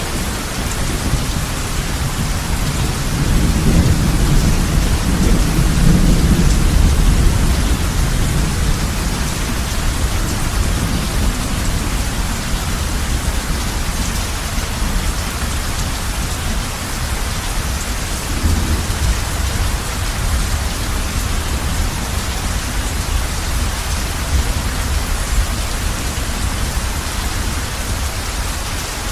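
Heavy rain falling steadily on a roof, a continuous hiss. A low rumble of thunder swells about three seconds in and fades away by about eight seconds.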